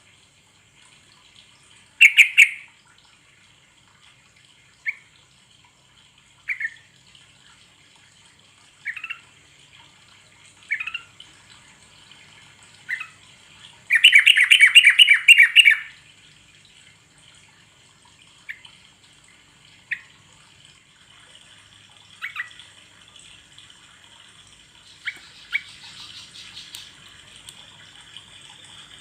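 Yellow-vented bulbul (trucuk) calling: single short chirps every couple of seconds, a loud call about two seconds in, and a rapid chattering run of notes lasting about two seconds around the middle.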